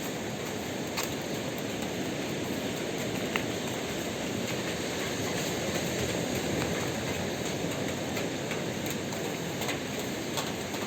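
Steady rain falling as a dense, even hiss, with a few sharp taps scattered through it.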